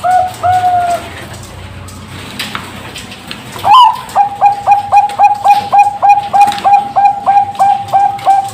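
Zebra dove (Bangkok-strain perkutut) cooing: a phrase of coos ending about a second in, a pause of nearly three seconds, then from about four seconds in a fast, even run of short coo notes, about three or four a second.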